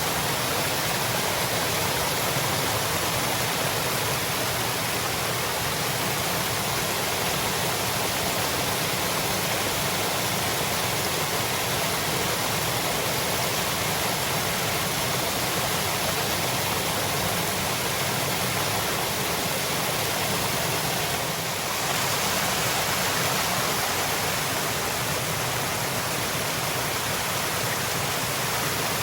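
Waterfall: water falling and rushing in a dense, steady hiss, with a brief dip in level about three-quarters of the way through.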